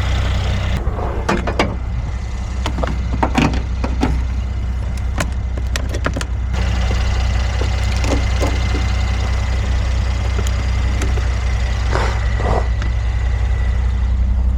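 A car engine running steadily, with several short knocks and clunks over it, a cluster early on and a pair near the end.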